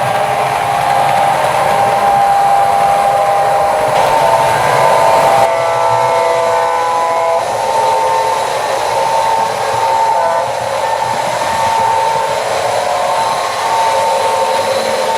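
Märklin H0 model diesel locomotive running on the track: a steady whine whose pitch shifts as it goes. A brief chord of several tones sounds about six seconds in.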